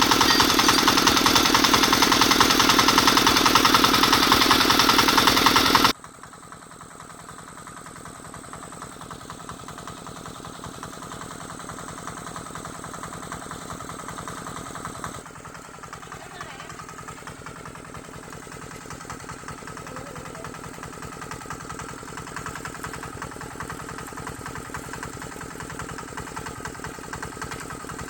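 Tractor engine freshly rebuilt with new piston rings and connecting-rod bearings, running on its test run after the repair. It runs loud and fast at first, then about six seconds in the sound drops sharply to a quieter, steady running.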